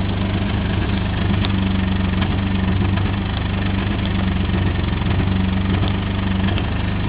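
Car engine idling steadily, a low even hum with no change in speed.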